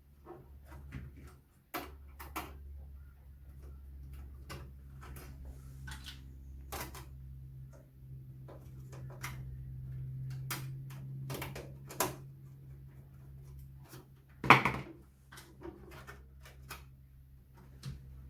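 Scattered clicks and knocks of a screwdriver and the Compaq Portable's case parts being handled as the back panel is taken off, with one louder knock about 14 seconds in. A steady low hum runs underneath.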